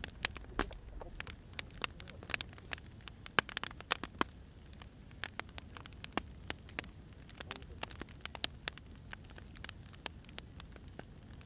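Wood fire crackling: irregular sharp pops and snaps, a few louder than the rest, over a low steady rumble of burning firewood.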